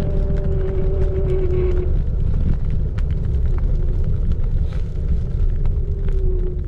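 Xiaomi Electric Scooter 4 Pro riding. The hub motor whine is a steady tone that fades out about two seconds in and comes back near the end. It sits over a heavy low rumble, with scattered small clicks and rattles.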